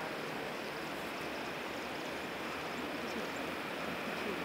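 Rushing water from a hillside stream pouring down from under the road, a steady even noise.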